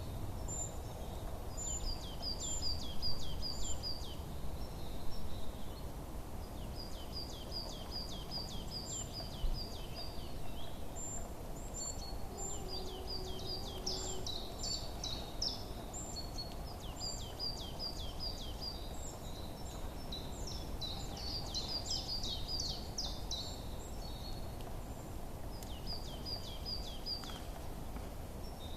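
Songbirds chirping in repeated runs of quick, high, downward-sweeping notes, over a steady low background rumble.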